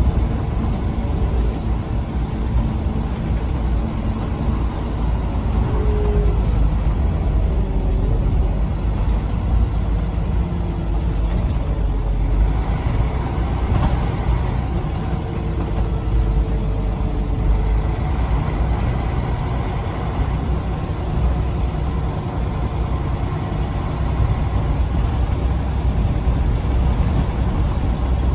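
Scania CN94UB OmniCity bus under way, its engine and drivetrain running as a steady low rumble with faint, wavering whines rising and falling as it drives on.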